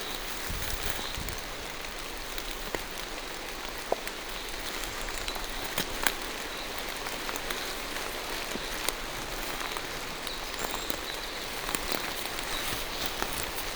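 Steady rain falling through forest trees, with scattered sharp ticks of single drops striking close by.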